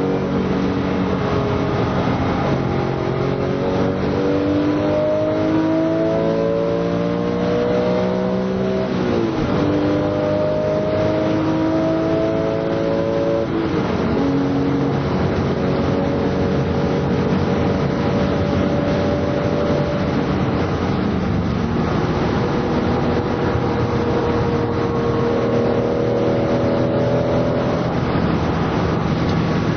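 Porsche 996 GT3's 3.6-litre flat-six engine, heard from inside the cabin, accelerating hard at racing speed. Its pitch climbs and drops sharply at upshifts about 9 and 13.5 seconds in, then runs steadier, eases off for a few seconds and climbs again near the end.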